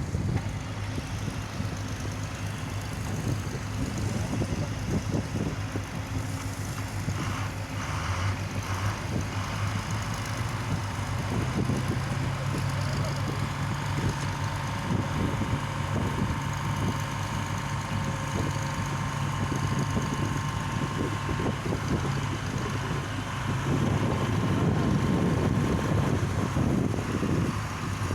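Excavator engine running steadily, with a second, higher hum joining about twelve seconds in and the sound getting louder near the end.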